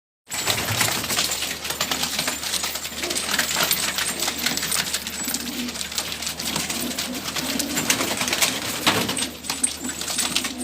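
Domestic pigeons gathered in a coop or small room: a dense run of quick clicks and rustles from wings and feet, with low cooing underneath. It starts abruptly a moment in.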